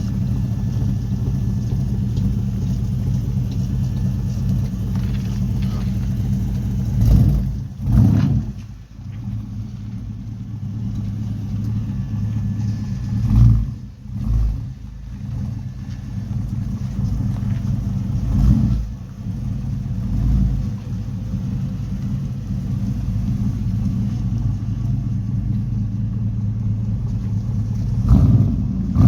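LS 5.3 V8 in a Buick Regal idling through its newly finished exhaust, a steady low note, blipped about five times in short throttle revs that drop back to idle.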